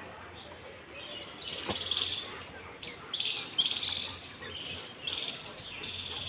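Small birds chirping: a quick string of short, high chirps that keeps up.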